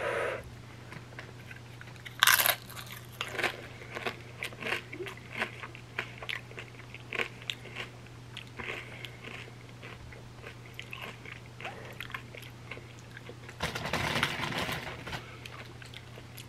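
Close-up crunching and chewing of a flamin' hot chip loaded with creamy dip: one loud crunch about two seconds in, then many small crunches as it is chewed, with a longer rustly stretch near the end. A steady low electrical hum runs underneath.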